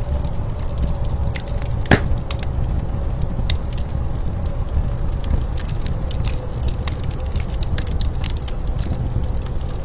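Wood fire crackling, with scattered small pops and one loud sharp crack about two seconds in, over the steady low rumble of blizzard wind.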